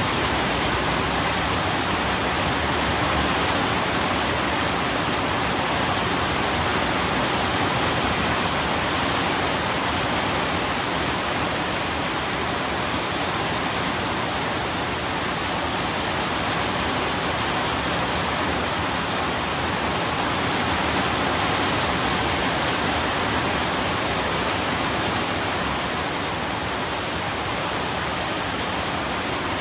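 Steady heavy rain: an even, unbroken rush of falling water.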